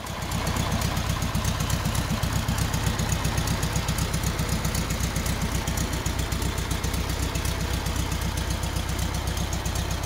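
Volkswagen 1303 Beetle cabriolet's air-cooled flat-four engine idling steadily, with an even low pulse.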